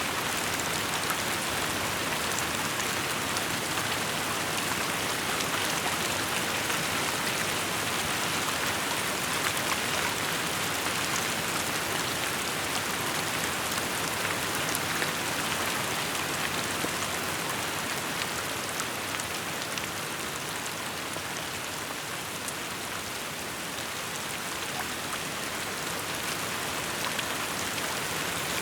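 Steady rainfall: a dense, even hiss of rain with many small drop ticks, easing slightly a little past the middle.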